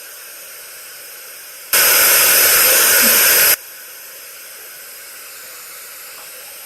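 White noise generator hissing steadily. About two seconds in, a much louder stretch of the same hiss cuts in suddenly, lasts just under two seconds, then cuts out just as suddenly.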